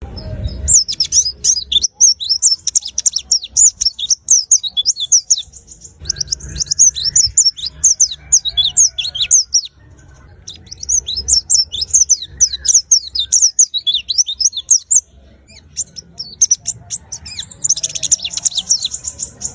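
A white-eye (pleci) singing a fast, high twittering song in long unbroken runs, pausing briefly a few times.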